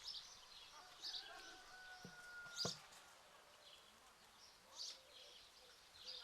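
Faint birds chirping, short high calls about once a second, with a single sharp click a little over two and a half seconds in.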